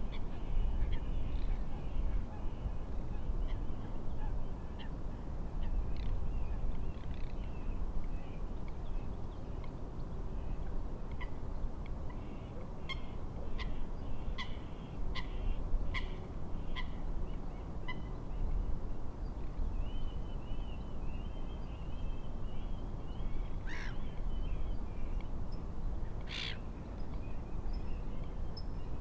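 Steady low wind and wave noise with small birds calling over it: a run of short sharp chirps about twice a second around the middle, and two louder calls near the end.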